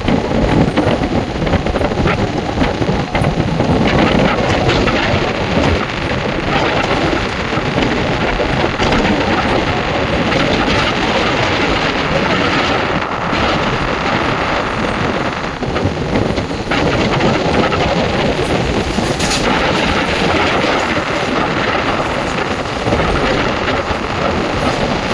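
Indian Railways ICF passenger coach running along the track: a loud, steady rumble of wheels on rails mixed with the rush of air.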